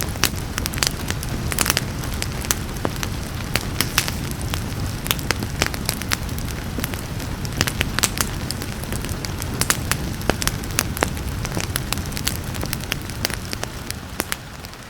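Wood fire in a fireplace crackling, with many sharp pops several times a second, over a steady hiss of rain. The sound dips slightly at the very end.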